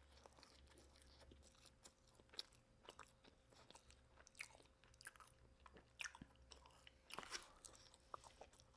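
Faint close-up chewing of fast food: soft crunches and small wet mouth clicks at irregular intervals, a little louder about seven seconds in.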